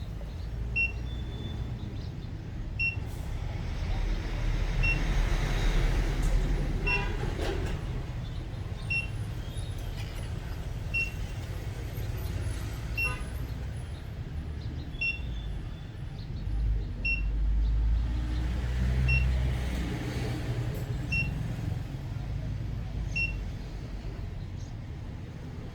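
A short high electronic beep repeating about every two seconds, over a low rumble that swells twice like passing traffic.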